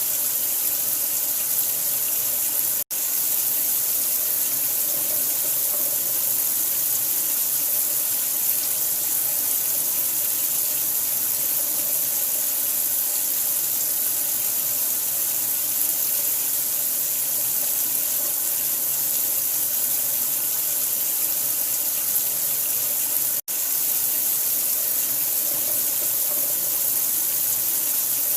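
Steady running water, an even rushing hiss, cut off twice for a split second: once about three seconds in and once about five seconds before the end.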